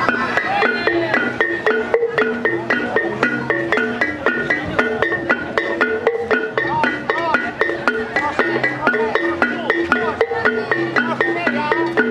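Javanese gamelan music: mallet-struck keyed metal instruments play a steady, repeating melody of ringing notes, with sustained low tones beneath.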